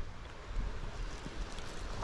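Steady wind noise rumbling on the microphone.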